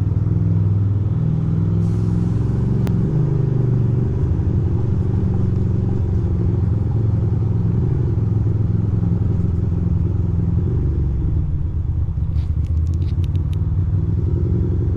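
2006 Ducati Monster 620's air-cooled L-twin engine running at low, fairly steady revs while riding slowly, with a few faint clicks near the end.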